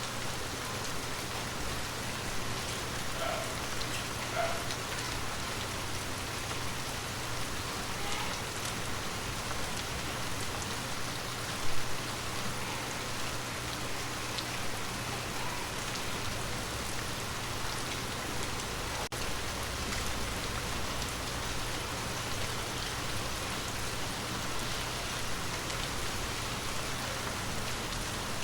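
Water drops tapping on glass: a steady, even patter with scattered single drips standing out, and one louder tap about twelve seconds in.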